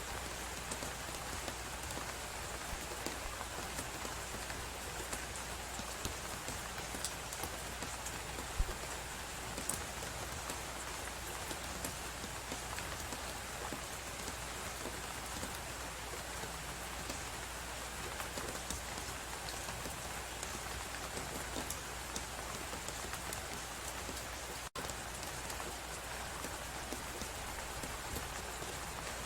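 Crackling wood fire: a steady hiss with scattered small crackles and pops, and one louder pop about eight or nine seconds in. The sound drops out for an instant about twenty-five seconds in.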